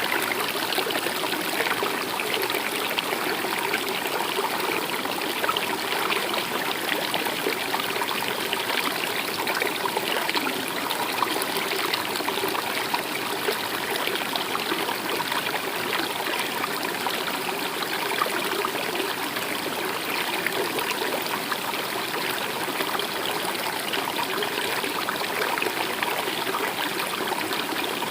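A stream running and trickling steadily, an even wash of flowing water.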